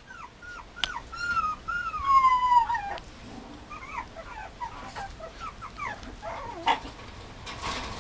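Mame shiba puppy whimpering: a long high whine that slides down in pitch about two seconds in, followed by a string of short whimpers.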